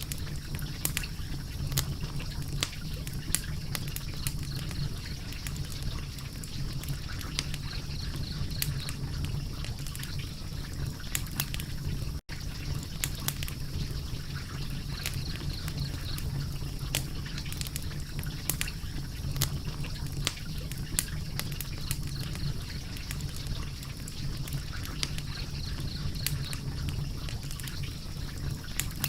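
Wood fire crackling, with frequent irregular sharp pops over a steady low rumble of burning.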